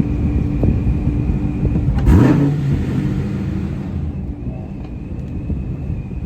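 Car engines running, with one car revving hard about two seconds in, its engine note climbing sharply and then holding.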